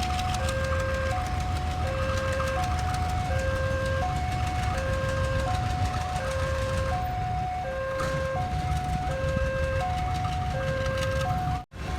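Railway level-crossing warning alarm sounding a repeated electronic two-tone signal, a higher and a lower note alternating about every half second, over a steady low rumble from a train. The sound cuts out for an instant near the end.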